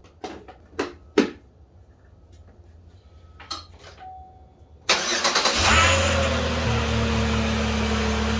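Three sharp knocks in the first second or so. About five seconds in, the 2011 Chevy Impala's 3.5-litre V6 is cranked and catches within about a second, then settles into a steady idle.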